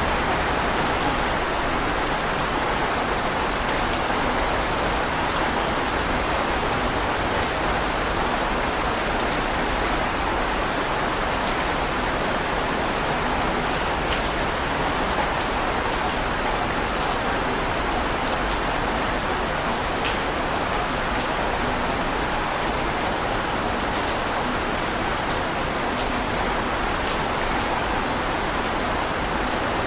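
Heavy rain falling steadily: a dense, even hiss with a few sharper drop ticks scattered through it.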